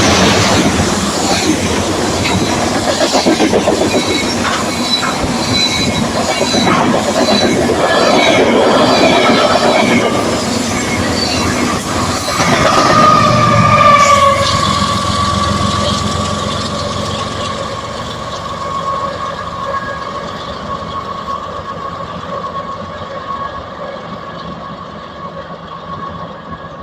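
A long freight train of tank wagons rolling past, its wheels clacking rhythmically over the rail joints. About halfway through a steady high-pitched wheel squeal sets in and slowly fades as the train moves away.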